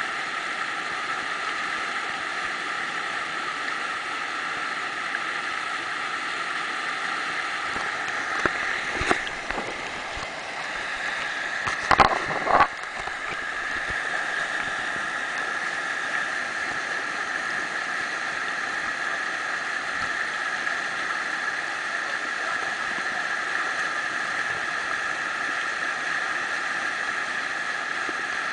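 Whitewater rushing steadily through a river stopper, a constant hiss of churning water. A few brief loud sounds break through about nine seconds in and again, loudest, about twelve seconds in, while the kayak is thrown on its ends in the stopper.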